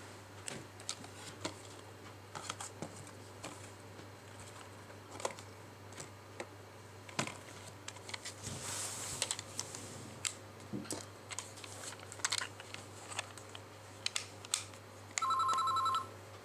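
Buttons of a plastic Anpanman toy mobile phone being pressed, giving many irregular small clicks, with a brief hiss about nine seconds in. Shortly before the end the toy sounds a steady electronic two-tone beep, like a phone keypad tone, lasting under a second.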